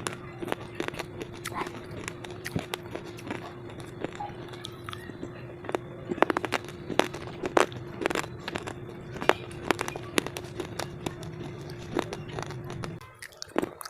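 Close-up crunching of slate pieces being bitten and chewed: a run of sharp, brittle cracks and crackles, thickest in the second half. A faint steady hum sits underneath and stops shortly before the end.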